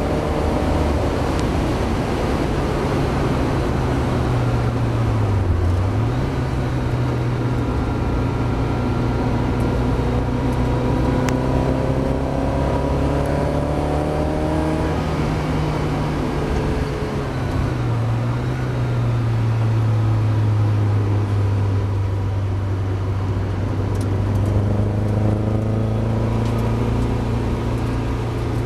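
Mazda MX-5's four-cylinder engine running hard, its note climbing and then dropping sharply twice, at about five and a half seconds and again near seventeen and a half seconds, as the car shifts or lifts off.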